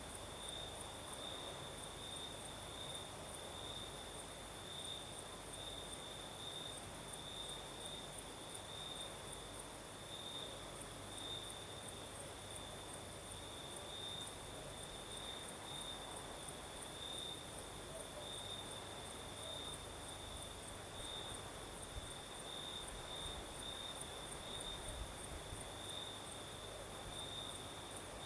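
Crickets singing at night in a steady chorus: one continuous, gently pulsing trill, with a second, higher-pitched insect trilling in quick pulses above it.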